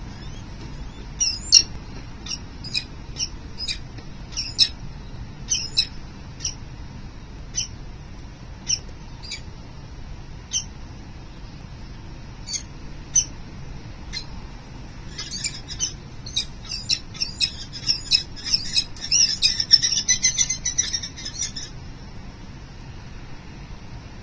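Peregrine falcons calling at the nest, likely the chatter of the male delivering prey to the female. The calls are short and sharp, spaced apart at first, then come in a rapid, louder run for several seconds near the end. A steady low rumble of background noise runs under them.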